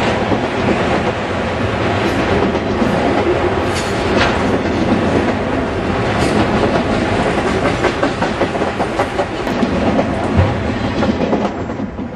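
Freight train of enclosed autorack cars rolling past close by, steel wheels clattering on the rails. The noise drops off near the end as the last car goes by.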